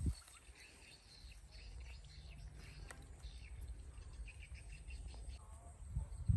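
Faint, scattered bird chirps over a low steady outdoor rumble, with a low thump at the very start and a couple more near the end.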